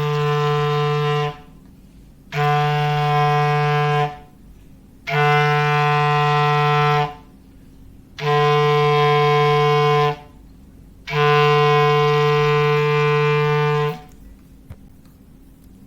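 Foghorn sound effect: five long, steady blasts on one low note, each about one and a half to three seconds, about a second apart, with the last one the longest.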